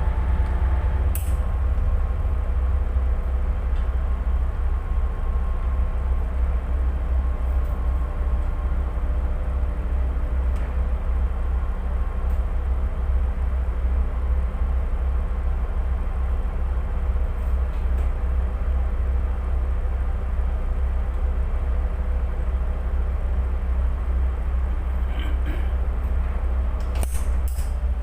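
Tugboat engine running steadily, a constant deep rumble with no change in speed. A few faint clicks come near the end.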